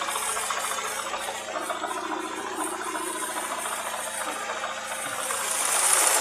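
Opel Astra F's 1.6-litre four-cylinder petrol engine running hot with a rapid knock, which the owner takes for a worn connecting-rod bearing. It gets louder near the end.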